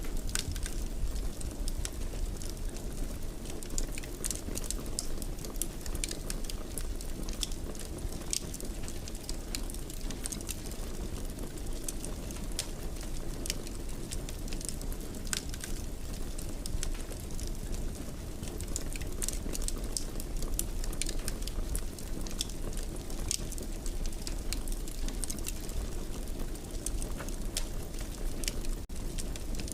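Fireplace fire crackling: frequent small sharp snaps and pops, irregular and scattered throughout, over a steady low rumble of the burning.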